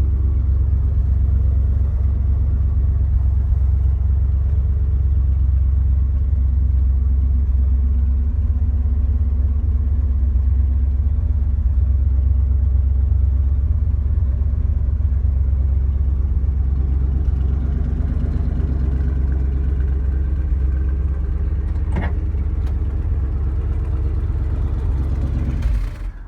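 A 1974 Chevrolet Malibu's engine idling steadily, loud and even, then shut off just before the end so the sound cuts out suddenly.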